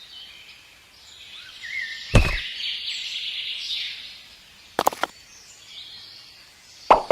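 Small birds chirping, with one heavy thump about two seconds in, a pair of sharp clicks near the five-second mark, and a quick, even run of knocks, about five a second, starting just before the end.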